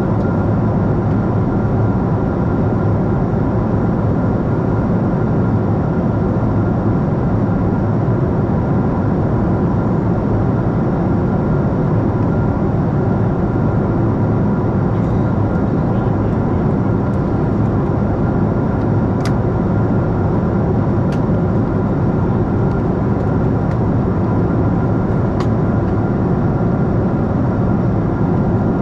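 Steady cabin noise of a Boeing 747-8 airliner in flight: the even rush of its GEnx engines and airflow, with a faint hum of steady tones. A few faint ticks come in the second half.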